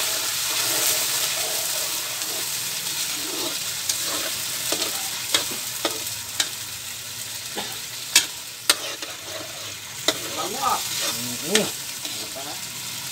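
Sardines in their sauce, with garlic, sizzling in a steel wok, stirred with a metal ladle that scrapes and clinks sharply against the pan several times in the second half.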